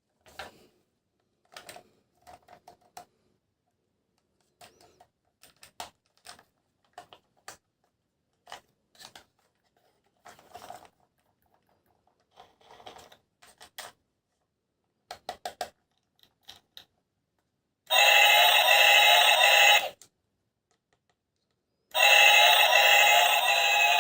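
Scattered light clicks and taps of plastic toys and packaging being handled, then a loud electronic tune plays in two short stretches near the end, about two seconds each.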